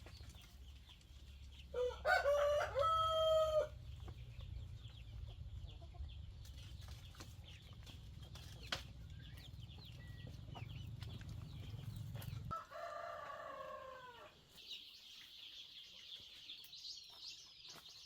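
Rooster crowing twice: a loud crow about two seconds in and a fainter one near the middle. Under it runs a steady low rumble that stops suddenly about twelve seconds in, and high chirping comes in near the end.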